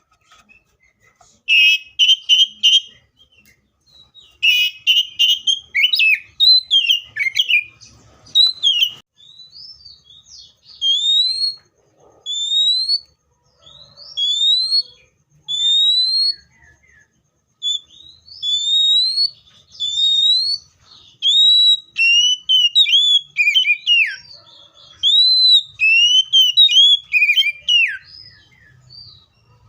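Magpie-robin singing loudly: a couple of harsh, rapid chattering bursts, then a run of clear rising whistled notes about one a second, then faster varied whistles and warbles.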